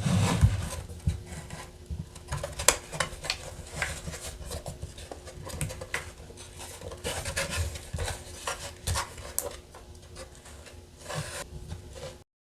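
Rubbing and scraping of toy pieces and packaging being handled, with many small clicks and knocks; the sound cuts off suddenly near the end.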